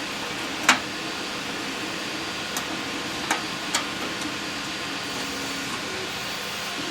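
Four sharp knocks and clicks from handling and taking apart an antique cash register: a loud one about a second in, then three lighter ones between about two and a half and four seconds, over steady background noise.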